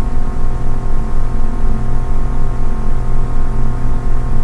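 A steady ambient drone of several held tones over a low rumble, background music playing under the reading.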